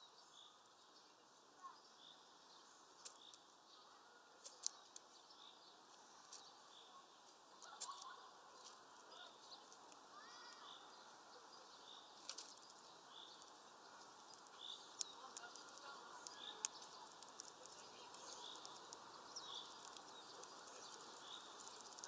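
Faint small-bird calls, a short high chirp repeating about once a second, with scattered sharp clicks from a female chaffinch pecking and cracking sunflower seeds on a feeder tray.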